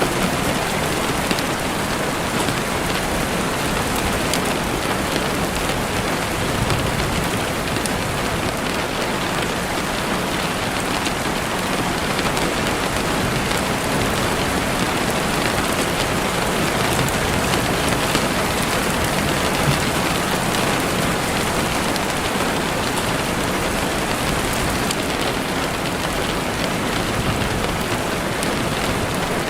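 Steady rain falling on leaves and ground, an even hiss with a few faint crackles from a campfire.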